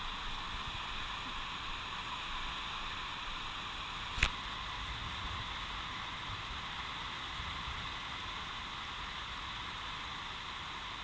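Steady, even hiss in the upper-middle range, with one sharp click about four seconds in.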